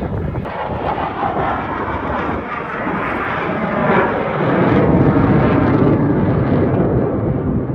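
Airplane flying past low overhead: a loud engine rush that swells about four seconds in, its pitch sweeping as it passes.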